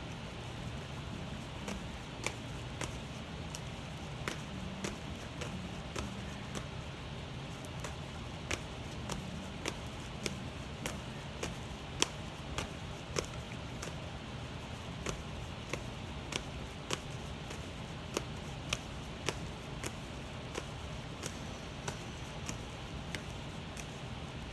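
Tarot cards being shuffled by hand: irregular soft clicks and taps of cards striking one another, a few every second, over a steady low background hiss.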